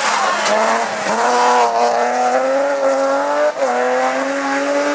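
Rally car engine pulling hard, its note climbing, then dropping sharply about three and a half seconds in at a gear change before climbing again.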